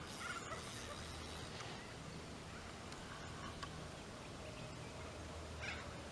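Faint outdoor ambience with a steady low rumble and a few short bird calls, near the start and again near the end.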